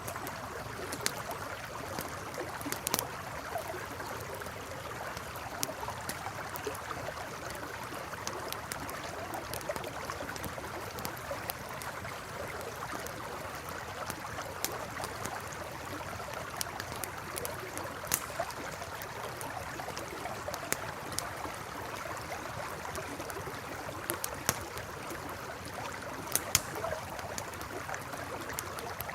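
Steady rush of a flowing river with a campfire crackling over it: sharp pops and snaps come irregularly, a few every couple of seconds, and stand out above the water.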